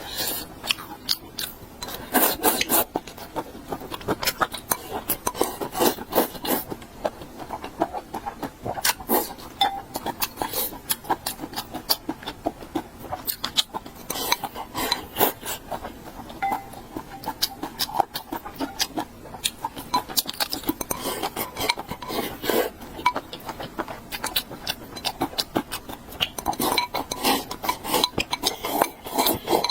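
Eating utensils clinking and scraping against dishes and bowls in many quick, irregular clicks.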